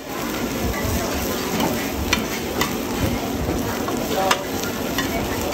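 Oyster omelette frying in oil on a wide, shallow black pan: steady sizzling, with metal spatulas scraping and clacking against the pan several times as the egg and oysters are turned and chopped.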